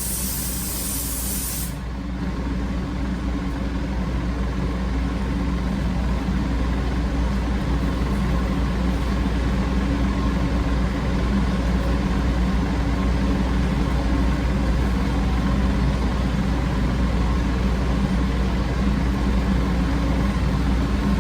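Air-fed paint spray gun hissing as a coat of paint goes on, its air cut off suddenly about two seconds in. A steady low machine hum runs underneath and carries on after the hiss stops.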